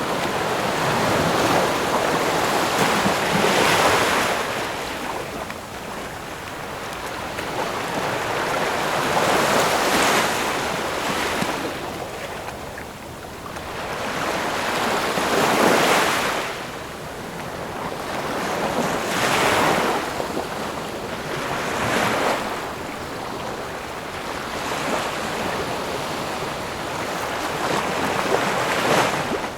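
Ocean waves breaking on the shore, the surf swelling and falling away every few seconds, with the loudest breaks about a quarter and halfway through.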